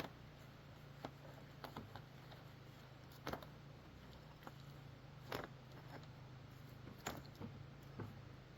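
Faint, scattered clicks and taps at irregular intervals, about half a dozen, over a low steady hum.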